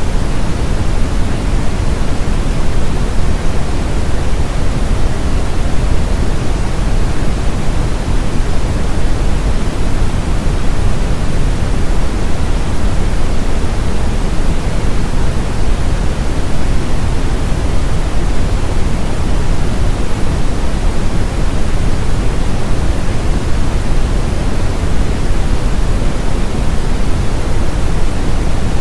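Steady synthetic brown noise: an even, unbroken rush, deepest and strongest in the low end and dimming toward the highs.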